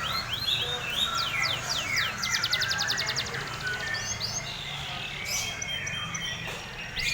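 Canary singing: fast rattling trills alternating with sweeping whistled notes, busiest in the first half and sparser in the second.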